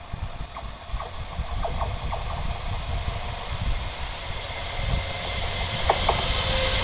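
Renfe class 256 electric locomotive hauling a steel-coil freight train as it approaches, a low rumble growing steadily louder with scattered short clicks, and a hiss rising near the end as it draws close.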